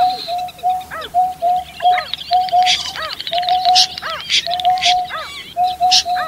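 Several birds calling over one another. A short, low hooting note repeats evenly, two or three times a second, with arched higher notes between, and a thin, busy high chirping and trilling joins in near the middle.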